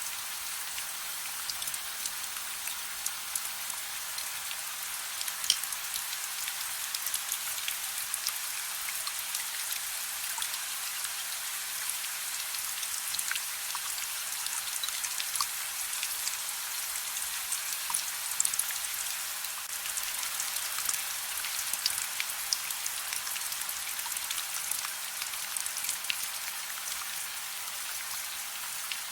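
Steady soft rain: an even hiss with many separate drops ticking through it.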